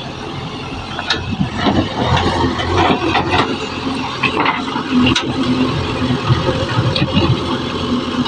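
JCB backhoe loader's diesel engine running steadily, with several sharp knocks and clanks scattered through it.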